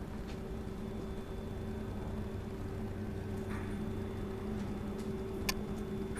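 Industrial keyhole buttonhole sewing machine humming steadily, with a sharp click about five and a half seconds in.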